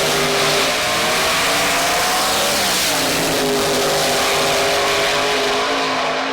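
Drag-racing engine running hard at wide-open throttle, loud and steady. Its pitch climbs, dips briefly a little under halfway through, then climbs again.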